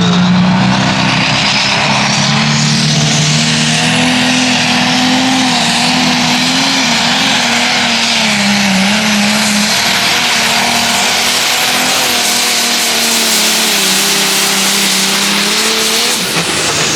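Turbocharged pulling tractor's engine at full throttle under load during a pull, with a high turbo whine that climbs over the first few seconds and then holds. Near the end the engine lets off and the whine falls away.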